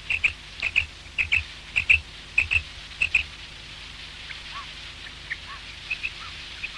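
Common quail calling: short, high notes in quick pairs, repeated about every 0.6 s for the first three seconds, then fainter and more scattered notes.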